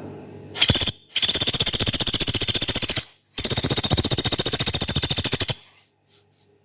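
Pelatuk beras, a small pygmy woodpecker, calling in long, harsh, high-pitched rattling trills of about fifteen notes a second: a brief one, then two of about two seconds each.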